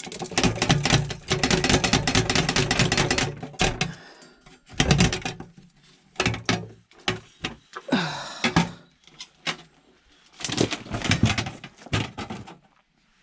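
Fragments of shattered safety glass clattering and clinking as they are handled: a dense rattle of many small clicks for about three and a half seconds, then scattered clinks and short clatters.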